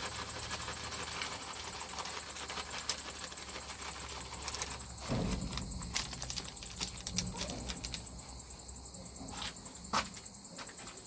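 Crickets chirping in a steady high chorus, with scattered sharp clicks and light knocks throughout.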